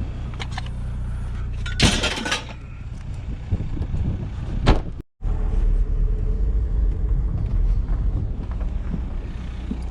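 Car engine running steadily with a low rumble, with a loud clatter about two seconds in and a sharp knock just before the sound drops out for a moment near the middle; the rumble is heavier after the dropout.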